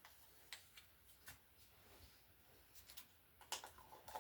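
Near silence broken by a few faint, short clicks and taps, coming more often near the end, as paint bottles and their caps are handled between pours.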